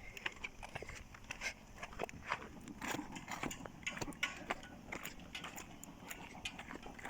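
Footsteps crunching on a rough dirt path while walking downhill, an irregular run of short steps and scuffs.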